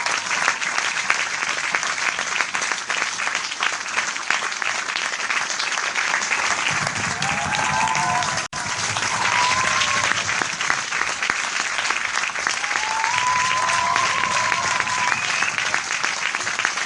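A large crowd applauding steadily, with a few voices whooping over the clapping and a low crowd murmur from about halfway. The sound cuts out for an instant at about the middle, at an edit.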